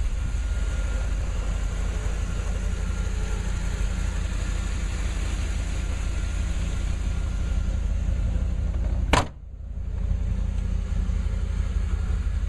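1992 Pontiac Trans Am's V8 engine idling steadily, with one sharp slam about three-quarters of the way through as the hood is shut.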